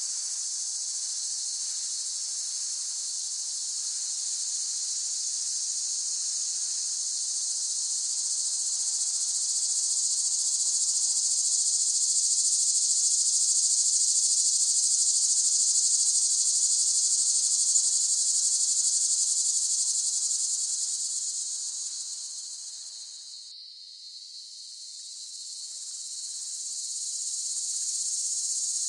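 Cicadas buzzing in a continuous high-pitched drone. It swells louder in the middle, fades to a brief low point a few seconds before the end, then rises again.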